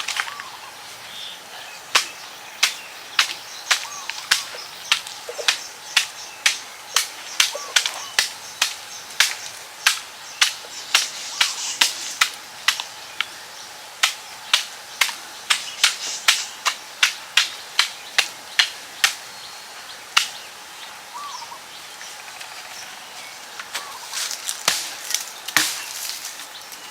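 Sharp knocks repeating about twice a second, like a tool striking something hard, pausing for a few seconds late on and then resuming; faint bird chirps behind.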